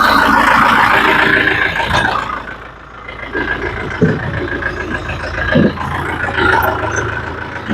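Vehicle engine running, loudest for the first couple of seconds and then settling to a steady lower rumble, with a couple of short knocks about four and five and a half seconds in.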